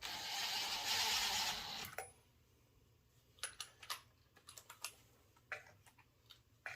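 About two seconds of rustling noise, then scattered light clicks and taps, like small metal parts and tools being handled while searching for a lug nut.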